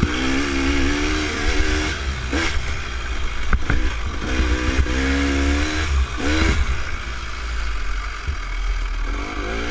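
Dirt bike engine revving up and down while riding a trail, its pitch rising and falling several times as the throttle opens and closes. There is a heavy low rumble and a few sharp knocks.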